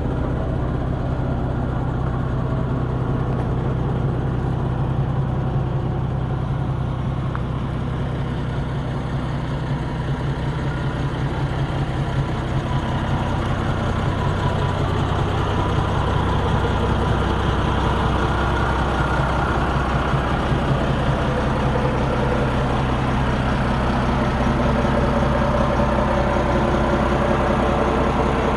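MAN 11.136 truck's diesel engine running steadily, a low even drone that grows a little louder in the second half.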